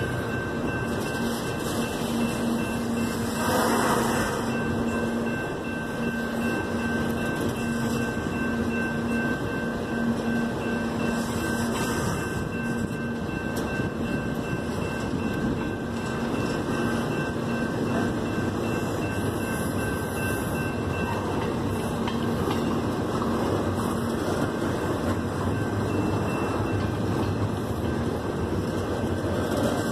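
Freight train of double-stack container well cars rolling past at speed: a steady rumble and clatter of steel wheels on rail.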